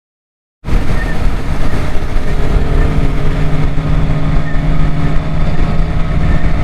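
A vehicle engine running steadily with a heavy low rumble, cutting in abruptly after about half a second of silence.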